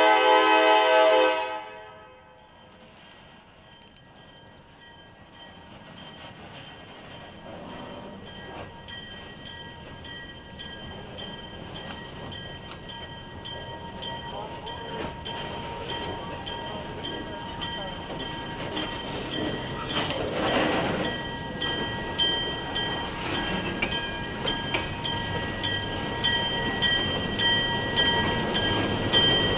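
A locomotive horn sounds loudly and cuts off about a second and a half in. A train's rumble follows, faint at first and growing steadily louder as it approaches.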